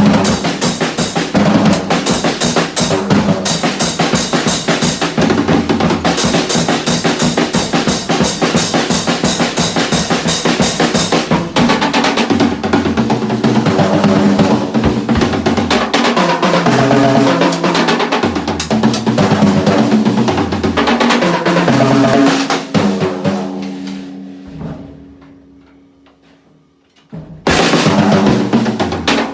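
A drum kit played hard with a fast, even run of strokes, then looser drumming over low pitched tones. The sound dies away over a few seconds about 23 seconds in and starts again abruptly about three seconds later.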